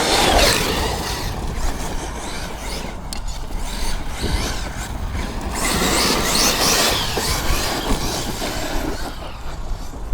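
Electric RC monster truck's brushless motor whining up and down as it accelerates and slows, loudest near the start and again from about halfway, over a steady low rumble.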